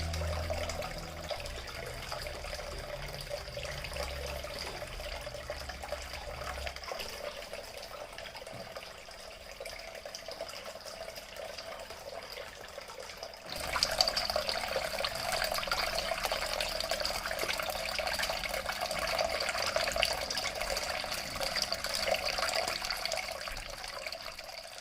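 Water from a homemade mini-pump waterfall fountain trickling and splashing steadily. A low hum sits under the first few seconds, and the water gets louder about halfway through.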